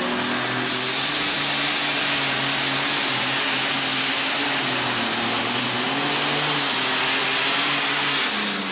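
Alcohol-burning super stock pulling tractor engine running flat out under the load of the weight sled, its pitch wavering as the revs rise and sag. A high whine climbs in the first second and then holds steady over it. The engine note drops near the end.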